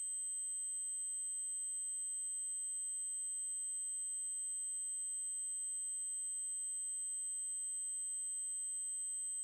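Synthesized 8192 Hz triangle-wave tone: a steady, very high-pitched electronic whine at a constant level.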